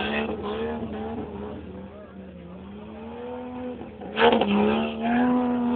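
Off-road trials vehicle's engine revving up and easing off as it is driven over the course. Its note sags about two seconds in, then jumps to a sudden loud burst of revs just after four seconds and holds there.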